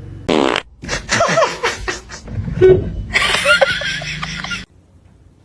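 A short, buzzing fart sound about a quarter second in, followed by people laughing. The sound cuts off abruptly near the end.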